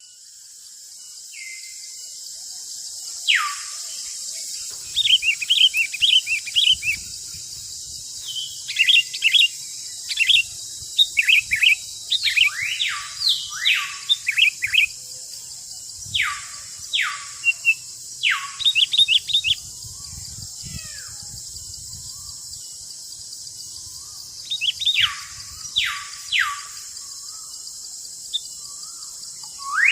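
Sooty-headed bulbuls calling in forest: repeated chattering phrases and long notes sweeping down in pitch, in bursts, over a steady high hiss.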